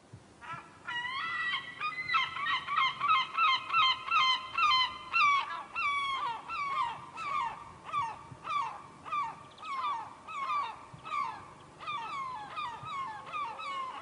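A flock of birds calling over and over in harsh honking calls, each bending down in pitch, about two calls a second. The sound fades in over the first second, with several voices overlapping at first and thinning to a steadier single series later.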